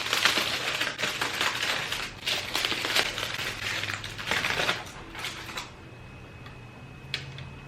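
Takeout food packaging being handled and opened: crinkling and rattling with small knocks. It stops about five and a half seconds in.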